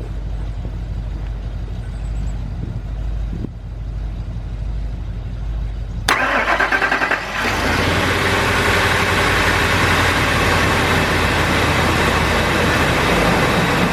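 A 1999 Ford Expedition's V8 engine is started a little past the middle: the starter cranks for about a second, then the engine catches and settles into a steady idle. The engine is running with a cylinder 2 misfire.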